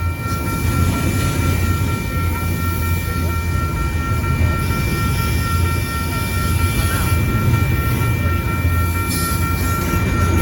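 A train passing at a railroad crossing: a steady, loud rumble of the cars rolling over the rails, with several steady high-pitched tones held throughout.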